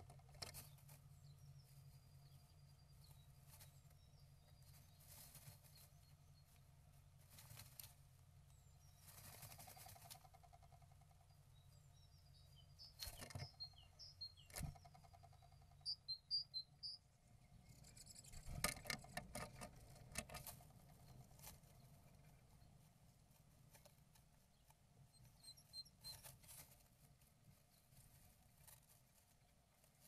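Near silence with a steady low hum, a few faint short bird chirps heard through the walls of the nestbox, and scattered soft knocks and scratches, busiest near the middle.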